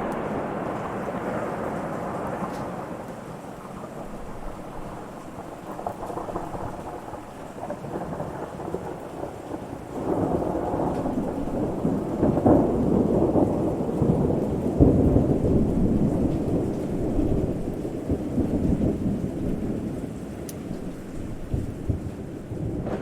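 Rolling thunder over steady rain. The rumble swells about ten seconds in, is loudest around the middle, then eases off.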